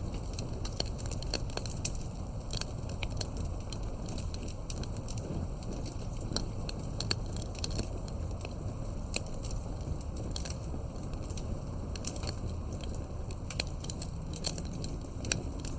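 Campfire burning with irregular crackles and pops, several a second, over a steady low rumble of the flames.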